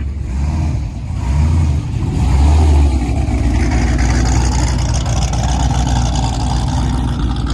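Car engine running and accelerating, with a deep stepped bass throb under it in the first three seconds.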